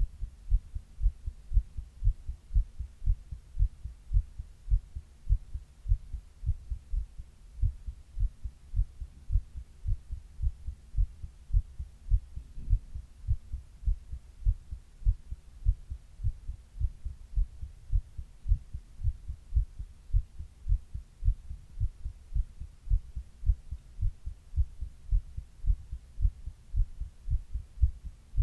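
A person's own heartbeat picked up close against the chest, a steady, regular run of low lub-dub thumps.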